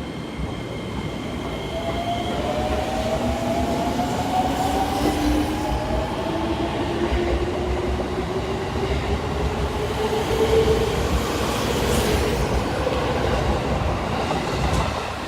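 JR 205 series electric commuter train accelerating away from the platform. Its motor and gear whine rises slowly in pitch as it gathers speed, over a heavy rumble of wheels on rail, with a single clack about twelve seconds in.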